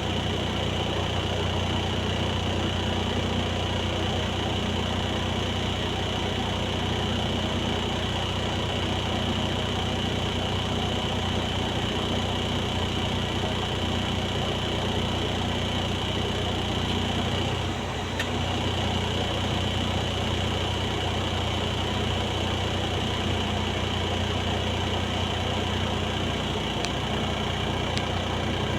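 Bulldozer's heavy diesel engine running steadily while pushing material, with a brief dip in level about two-thirds of the way through and a few faint ticks near the end.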